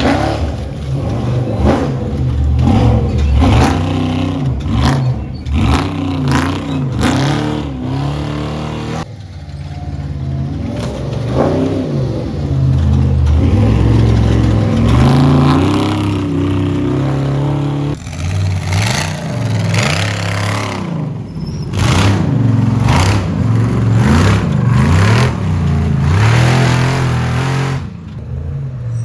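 Off-road Trophy Truck Spec race trucks accelerating hard and revving as they pass, their engine pitch rising and falling over and over, in a few back-to-back clips that cut abruptly from one to the next.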